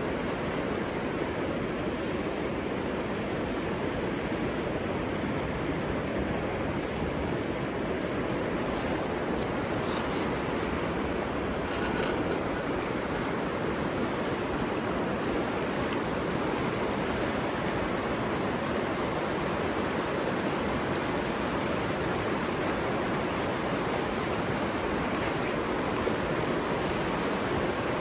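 Steady rushing of a flowing river, even throughout, with a few faint light ticks.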